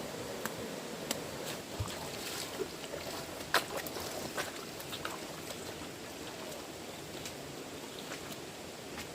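Rushing stream water with scattered splashes and clicks, the sharpest about three and a half seconds in.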